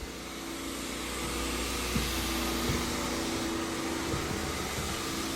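Carpet-cleaning extraction machine (Vortex Lite) running with its suction on, as the cleaning wand works a rug: a steady rushing suction noise with a hum, building over the first second and then holding, with a couple of light knocks.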